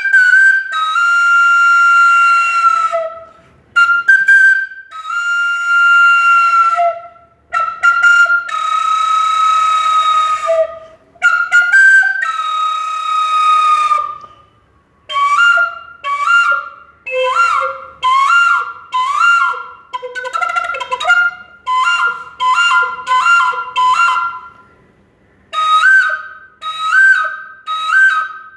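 Flute pitched in C imitating early-morning birdsong: long held notes with a breathy edge that drop in pitch at their ends, then from about halfway short notes repeated quickly with little up-and-down pitch flicks, like a bird's call.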